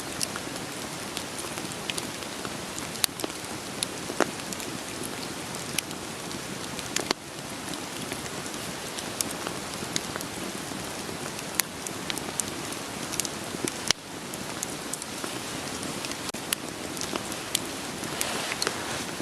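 Steady rain hiss mixed with a wood fire crackling, with frequent sharp pops and snaps from the burning logs. The level dips briefly twice, about seven and fourteen seconds in.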